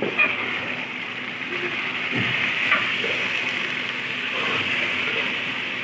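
Raw chicken pieces sizzling in hot oil with browned onions, garlic and ginger, turned with a metal spatula that knocks lightly against the pot a few times.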